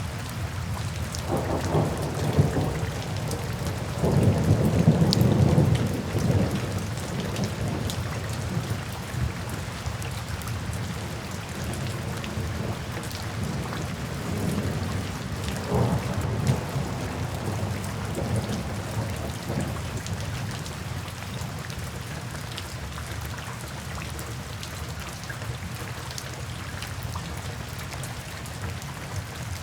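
Steady rainfall with rolling thunder: a low rumble swells up twice in the first several seconds, the second one the loudest, and a fainter roll comes about halfway through, over constant rain hiss.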